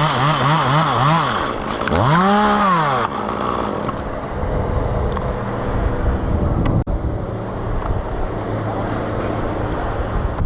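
Chainsaw engine revved in a quick series of throttle blips, then revved up once more and dropped back to a steady idle about three seconds in.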